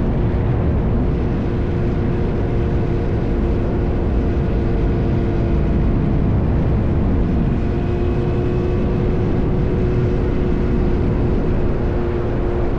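Yamaha R1 inline-four sport bike with an SC-Project exhaust cruising at a steady engine speed: a constant engine note over a broad rushing noise, with no revving or gear changes.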